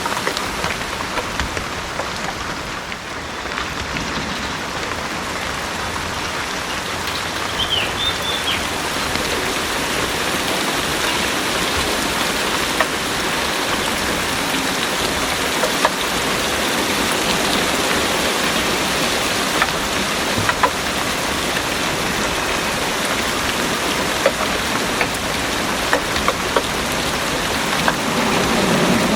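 Heavy rain pouring steadily, with single close drops ticking sharply now and then. A low rumble of thunder starts to build near the end.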